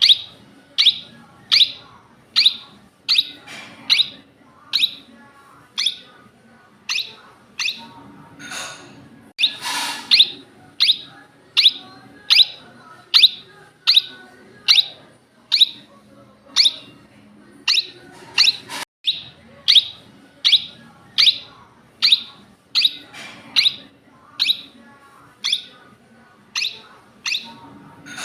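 Indian ringneck parakeet calling: a long series of short, sharp calls that fall in pitch, about three every two seconds, with one longer call about ten seconds in.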